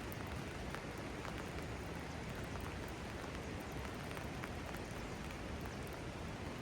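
Steady rain falling, with scattered single drops tapping close by.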